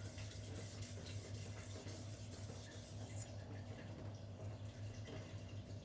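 Cleaver edge scraping on a wet 2500-grit silicon carbide whetstone in short repeated strokes, refining the edge and knocking down the burr. The strokes stop about three seconds in. A steady low hum runs underneath.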